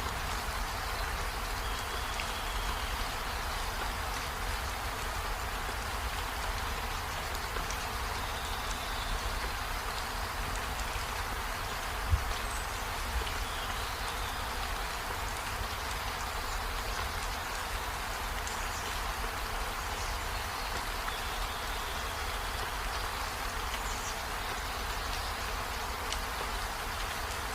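Steady rain falling, with a single sharp knock about halfway through.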